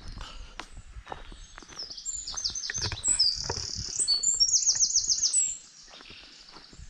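A songbird singing a loud, rapid song of high trills and repeated notes, lasting about three seconds from around two seconds in. Soft footsteps on a woodland path can be heard throughout.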